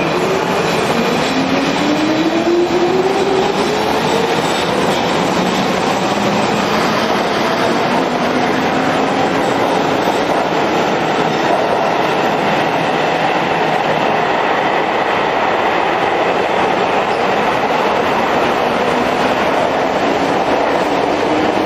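Keio 6000 series electric train accelerating. A motor whine rises in pitch over the first few seconds, then gives way to steady running noise of wheels on rail.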